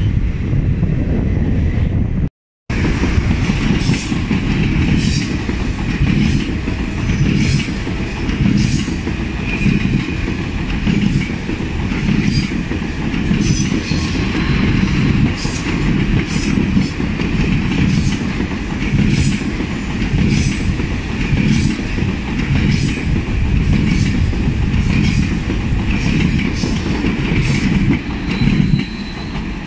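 Two coupled TGV double-deck trainsets (TGV Duplex and Dasye) rolling slowly past, wheels clicking over rail joints and points about once a second over a steady rumble. About two seconds in, the sound of a Regio 2N double-deck electric multiple unit breaks off briefly before the TGV pass begins.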